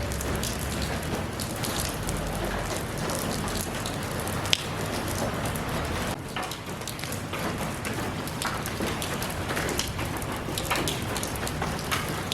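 Steady rain falling, drops pattering on a surface, with scattered louder drips and one sharp drip about four and a half seconds in.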